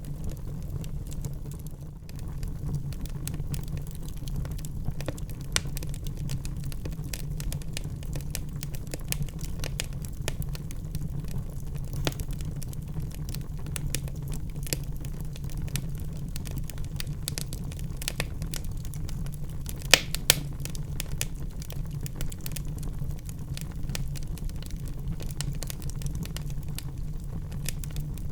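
Wood fire burning in a fireplace: a steady low rumble under many small crackles and pops, with a couple of sharper pops about two-thirds of the way through.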